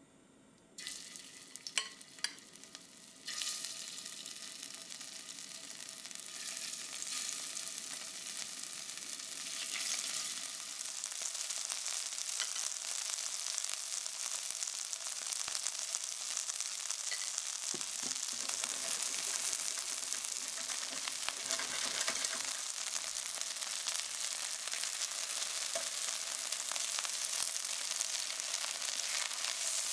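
Diced, flour-coated chicken breast sizzling in hot rapeseed oil in a stainless steel frying pan. The sizzle starts about a second in as the pieces go in, with a few clicks of the tongs against the pan. It grows louder over the first ten seconds, then holds steady.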